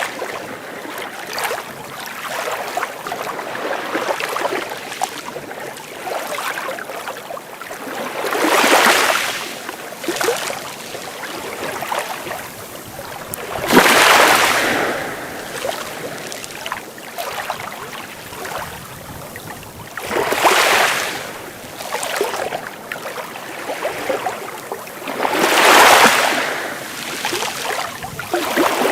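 Sea waves washing onto the shore: a steady wash of water with four waves breaking, about every five to six seconds.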